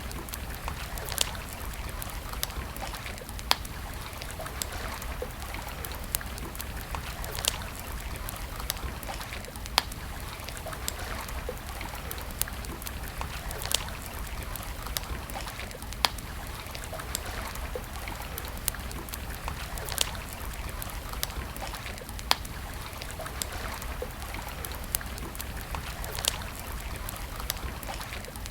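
Wood campfire crackling: a scatter of small snaps and a sharp louder pop every two to four seconds, over a steady hiss.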